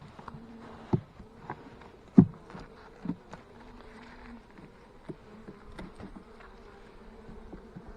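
Italian honeybees buzzing around an open hive as a faint, steady hum. A few sharp knocks cut through it, the loudest about two seconds in.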